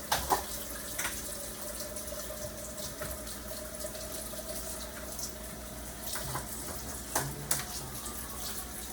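Pot of chicken soup boiling on the stove, a steady watery bubbling hiss, with a few sharp clicks and knocks of utensils. The loudest knocks come just after the start and again about seven seconds in.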